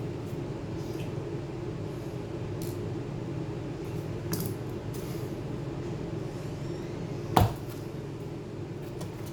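A few light clicks and clinks of small tools and parts being handled on a hard surface, with one sharp, louder knock about seven seconds in, over a steady low hum.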